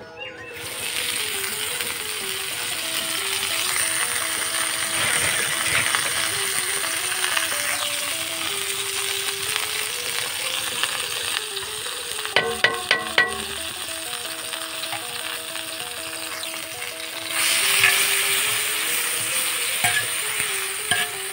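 Wet mustard flowers sizzling and spitting in hot oil in a flat iron pan, starting as they hit the oil and getting louder again a few seconds from the end. A quick run of metallic clinks comes just past halfway, over soft background music.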